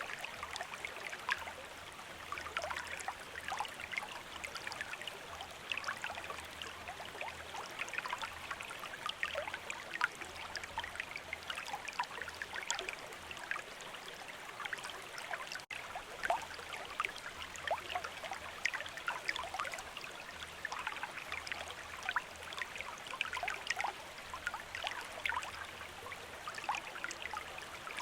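Stream of running water: a steady rush with many small, quick splashes and gurgles. It cuts out for an instant a little past halfway.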